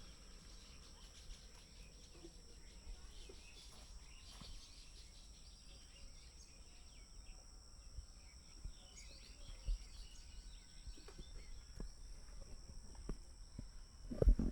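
Quiet rural outdoor ambience: scattered faint bird chirps over a steady high-pitched insect buzz. A short, loud knock comes near the end.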